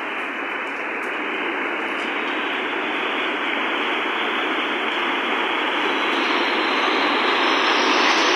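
Steady rush of water that grows gradually louder and brighter.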